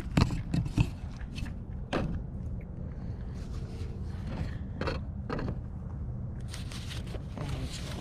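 Handling noises: a quick cluster of knocks and clicks in the first second, then scattered clicks and short rustles and scrapes, over a steady low rumble.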